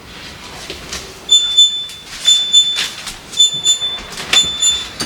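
Repeated high-pitched squeaks, about one a second, from a cloth or sponge being rubbed in strokes over a smooth hard surface while a refrigerator is wiped down.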